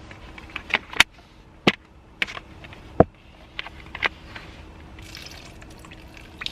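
A series of sharp clicks and knocks, irregular and spread over about four seconds, from objects being handled, with a faint steady hum underneath.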